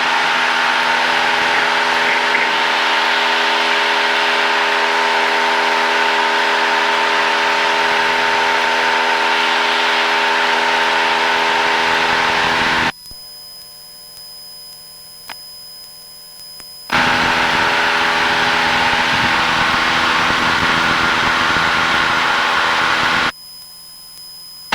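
Cessna 172's engine and propeller drone steadily at full climb power inside the cabin. The sound cuts out abruptly twice, for about four seconds past the middle and again near the end, leaving only a faint hum.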